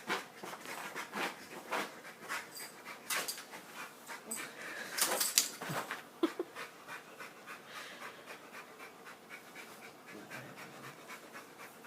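A dog panting hard in quick, irregular breaths, with a louder burst of breathing and movement about five seconds in.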